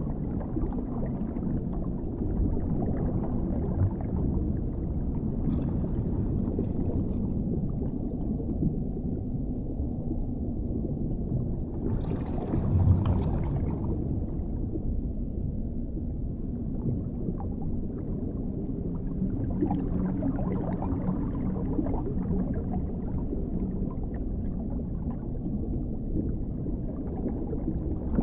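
Underwater ambience: a steady, muffled low rumble of water, with a brief brighter swell about twelve seconds in.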